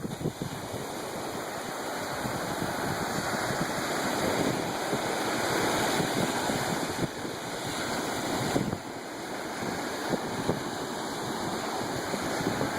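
Ocean surf washing in and out, a steady rush that swells and ebbs, with wind buffeting the microphone.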